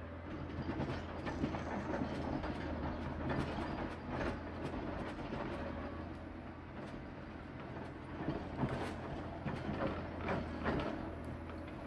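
John Deere 670 motor grader's diesel engine running steadily, with irregular clanks and rattles from the machine as it works.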